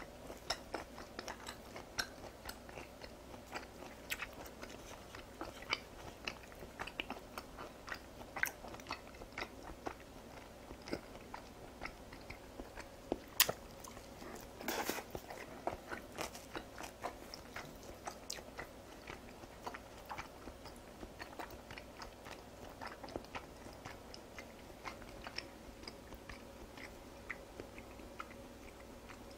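Close-miked chewing of raw beef sashimi: a steady run of soft, wet mouth clicks and smacks, with one sharper click about 13 seconds in and a short louder stretch of chewing about 15 seconds in.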